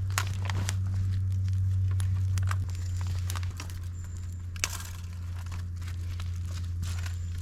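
Small fire of dry bamboo, twigs and leaves crackling in a fire stand, with irregular sharp pops, over a steady low hum.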